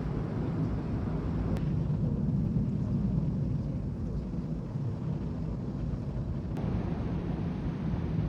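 Steady low rumble of a large car ferry under way, its engines humming under a constant wash of noise, with a slight abrupt change in tone about two-thirds of the way through.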